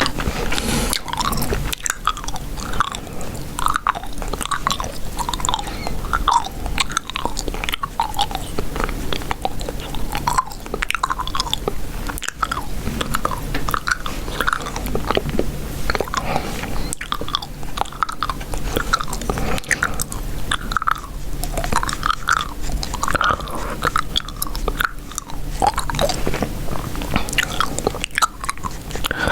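Chewing gum close to the microphone: an irregular, unbroken run of short smacks and clicks, a few each second.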